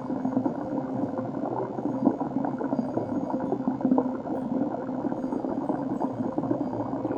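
Flowing water bubbling and gurgling, heard muffled and dull as through an underwater microphone, a steady dense stream of small pops.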